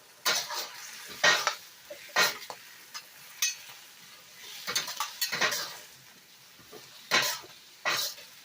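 A cooking utensil stirring and scraping in a pan, with about seven sharp clinks and scrapes spread through, over faint sizzling.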